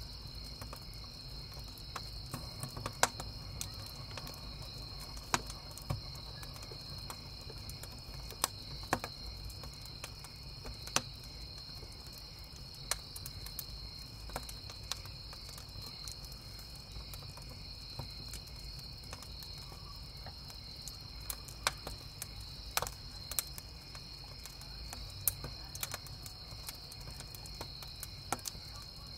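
Wood campfire crackling, with irregular sharp pops and snaps from the burning firewood over a steady high chorus of chirping crickets and a low rumble.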